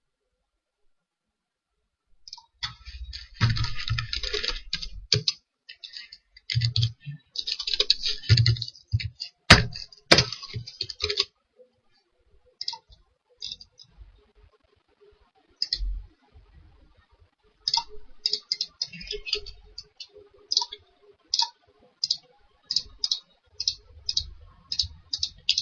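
Computer mouse clicks and keyboard keystrokes: a dense flurry of clicks with a few dull desk knocks, then single clicks at about one or two a second.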